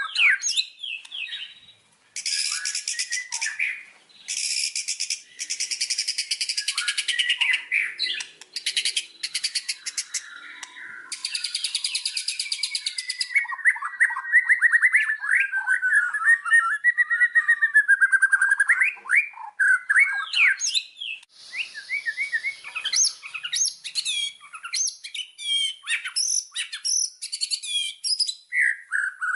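White-rumped shama (murai batu) in full, non-stop song: loud whistled notes and chirps mixed with several stretches of fast rattling trills, and a long warbling run of notes in the middle.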